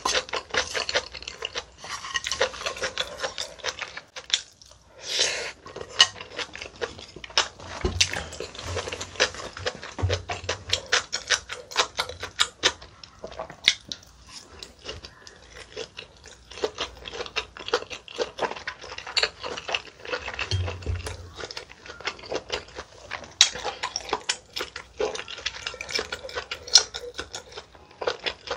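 Close-miked eating sounds: chewing with many small crunches and wet clicks, and now and then wooden chopsticks tapping against the dishes.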